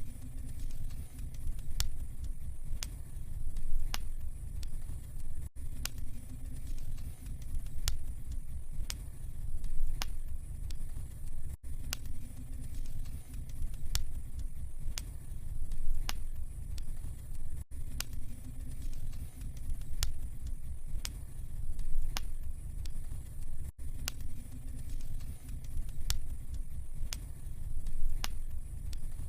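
Wood fire burning in a fireplace: scattered sharp crackles and pops over a low, steady rumble of the flames.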